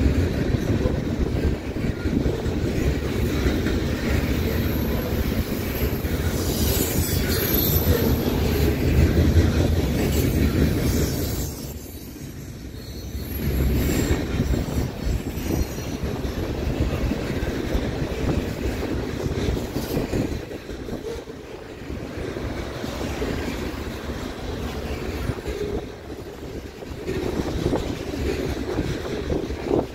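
CN freight train of boxcars and centerbeam lumber flatcars rolling past, its steel wheels rumbling on the rails. A high wheel squeal comes in the first third. The rumble dips briefly about twelve seconds in.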